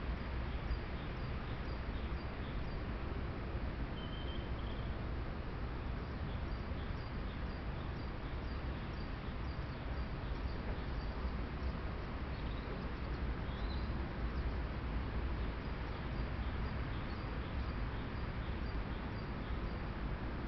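Small birds calling with faint, short, high chirps repeated all through, plus a couple of brief higher whistles, over a steady background hiss and low rumble.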